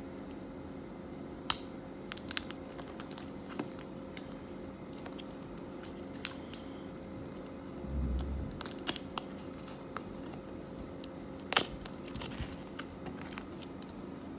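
Knife cutting the packing tape off wrapped trading card packs and peeling it away: scattered sharp clicks and short tearing, crinkling sounds over a steady background hum, with a dull bump about eight seconds in.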